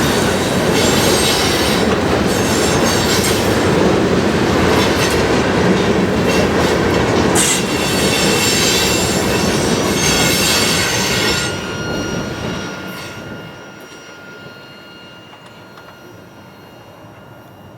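Loaded ballast train's freight cars rolling past, with steel wheels rumbling and squealing on the rails. About twelve seconds in the noise dies away as the train goes by, leaving a faint thin whine.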